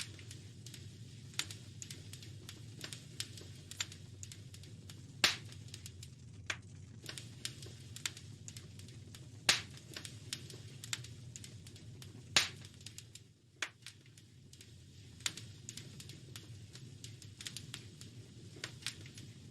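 Wood fire crackling in a fireplace: a steady stream of small snaps over a low rumble, with a few louder pops about five, nine and a half and twelve and a half seconds in.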